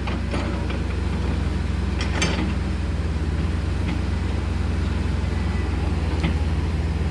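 A heavy diesel engine running steadily, with a deep drone. A couple of sharp knocks come through, about two seconds in and again near the end.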